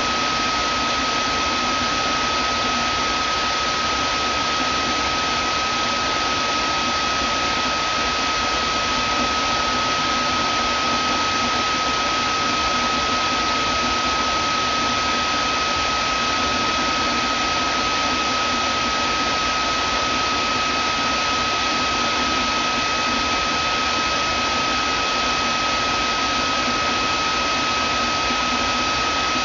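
Vacuum cleaner running steadily: an even rush of air with a constant high whine over it.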